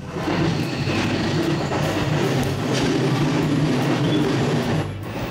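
Electric commuter train running, heard from inside the carriage: a steady rumble of wheels on rail over a constant motor hum, with a few faint knocks.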